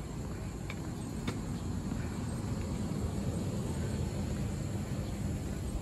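Steady low rumble of the Sagano Scenic Railway sightseeing train running along the track, with a few faint clicks.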